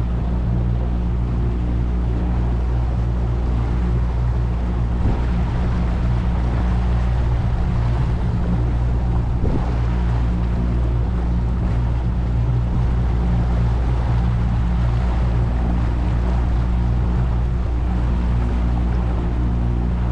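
Boat engine running steadily at a constant speed, with water and wind noise over it.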